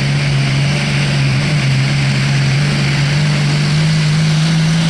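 Diesel pulling truck's engine running loud and steady, its pitch stepping up slightly twice.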